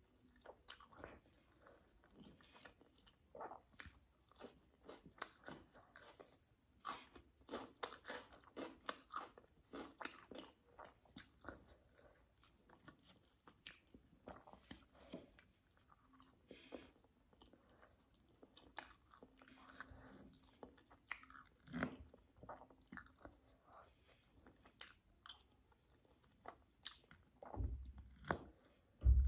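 Close-up eating sounds: chewing, biting and crunching on mouthfuls of roti, paneer curry and raw onion slices, in an irregular run of small wet mouth noises and crisp crunches. There is a low bump near the end.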